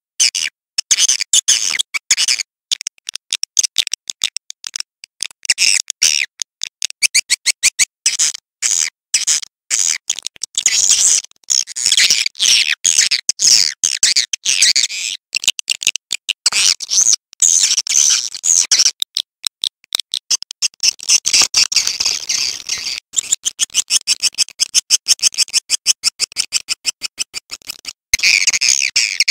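Edible-nest swiftlet calls from a recorded swiftlet lure track: rapid, high-pitched twittering chirps in quick, choppy runs, many per second, broken by short gaps.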